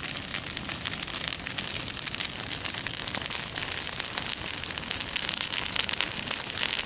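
Bonfire that has just caught, burning with a dense, steady crackling of many fine pops.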